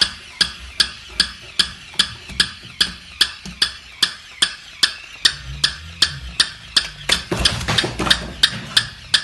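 Steady ticking: sharp, evenly spaced clicks at about two and a half a second.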